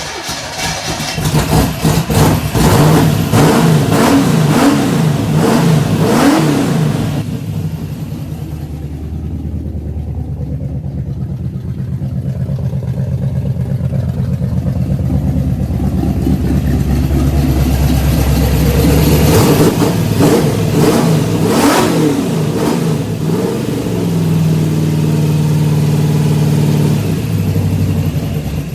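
Freshly rebuilt 1969 Pontiac 400 V8 with a roller cam running without mufflers, its exhaust going through a Y pipe into a single catalytic converter, which makes it sound raunchy. It is revved in quick blips during the first few seconds, settles to a steadier idle, is blipped again about twenty seconds in, then held at a steady fast idle near the end.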